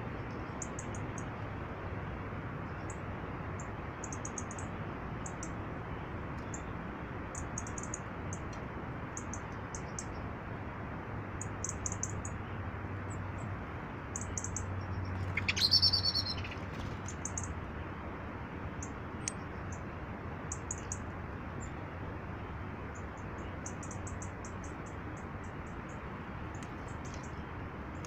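Small birds calling: thin, high-pitched calls in short runs throughout, with one louder, lower call about halfway through, over a steady background rush.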